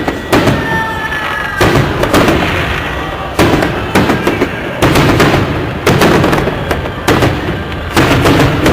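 Festive fireworks display: aerial shells bursting in loud bangs about once a second, each trailing off. A brief whistling tone sounds about a second in.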